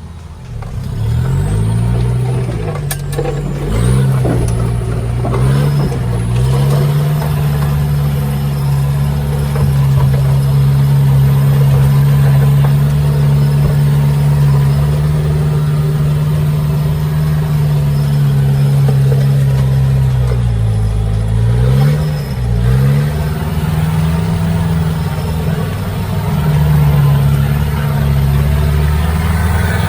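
Off-road vehicle engine running hard at high revs. Its pitch drops and climbs back several times in the first few seconds, and again about two-thirds of the way through.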